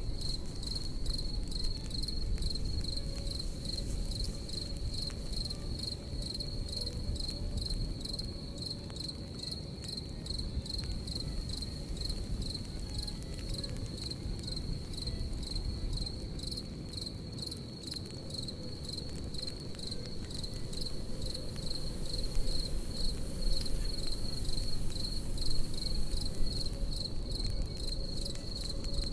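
Crickets chirping in a steady, evenly pulsing high-pitched trill, over the low rumble and faint crackle of a campfire.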